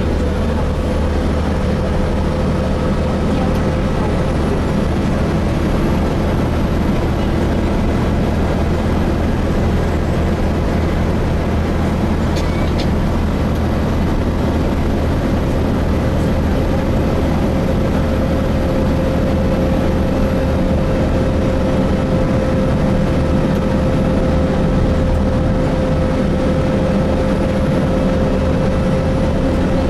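Cabin sound of a Gillig Phantom diesel transit bus with a Voith transmission at a steady cruise: an even engine and road rumble with a steady whine running through it, the whine rising slightly about halfway through.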